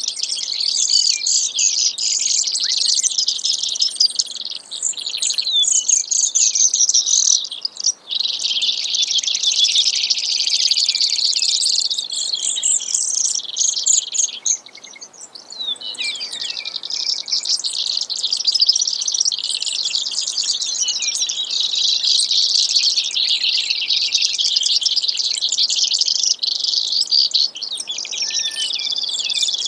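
Brewer's sparrow singing: long, nearly unbroken runs of high, rapid trills that shift in speed and pitch, with brief pauses about eight and fifteen seconds in.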